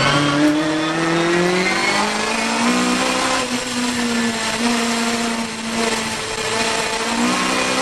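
Competition car's engine heard inside its stripped cabin, pulling hard under acceleration. The pitch climbs over the first couple of seconds, then holds high with brief dips as the car drives through the bends.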